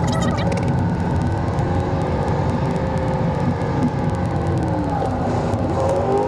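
Toyota LandCruiser 79 series engine and road rumble heard from inside the cabin while driving. The engine note drops about five seconds in and rises again near the end.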